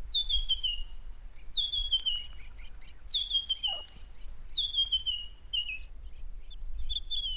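A bird singing a short descending run of high notes, repeated about every second and a half, with faint short chirps between.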